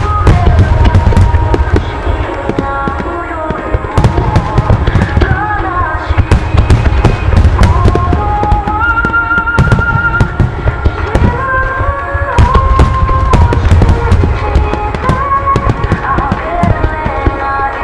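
A dense fireworks display: aerial shells booming and crackling in rapid succession under a constant low rumble, over music played from loudspeakers.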